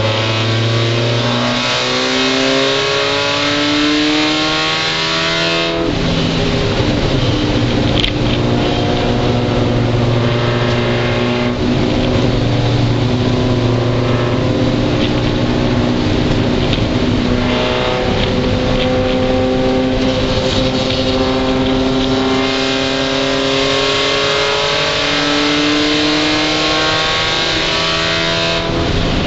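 Mazda Miata race car's four-cylinder engine, heard from inside the cockpit, pulling hard with its pitch climbing and breaking off at an upshift about six seconds in, then again several times after. A steady hiss of wet-road and spray noise runs underneath.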